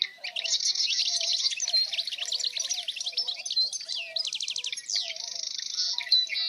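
Several songbirds chirping and trilling at once in a dense chorus, with quick overlapping notes and a fast, evenly spaced trill around the middle, over softer low calls.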